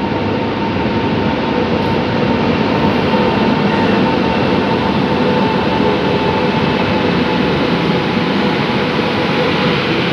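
Express passenger train pulling in alongside the platform: an electric locomotive and then its coaches roll past close by. The rolling noise is loud and steady, with a faint steady whine running through it.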